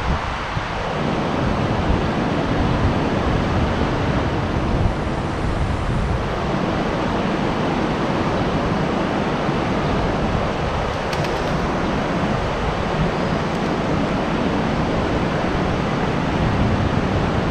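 Strong wind blowing steadily on the microphone, mixed with the wash of sea surf.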